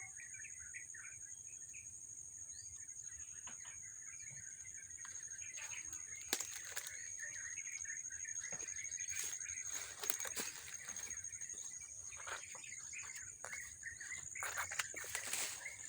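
Birds chirping and twittering in short, overlapping calls over a steady high-pitched whine, with scattered sharp clicks that grow busier in the second half.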